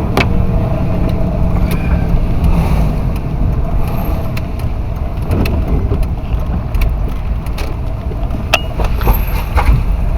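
Car driving, heard from inside the cabin: a steady low rumble of engine and road noise, with a few light clicks scattered through it.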